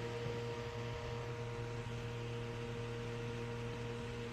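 Steady hum with an airy hiss from a small battery-powered fan running, with no change in speed.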